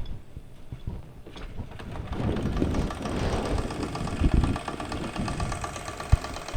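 Wilesco D419 model steam showman's engine getting going in reverse about two seconds in, then running with a fast, even clatter from its drive gears, with a few low knocks. The gear noise comes from a brass drive gear that is slightly out of true, which the owner blames for a tight spot against the flywheel gear.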